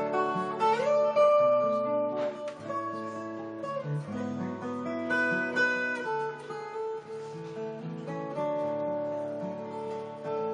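Acoustic guitar played solo: an instrumental with ringing, held notes, one of which slides up in pitch about a second in.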